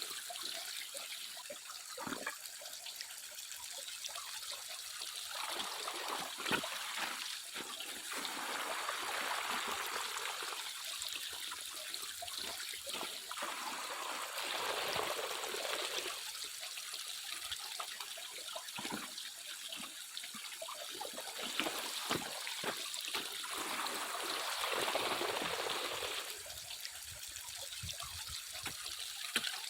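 Water sloshing in repeated swells every few seconds, with small gravel clicks: sediment being washed and swirled in a gold pan.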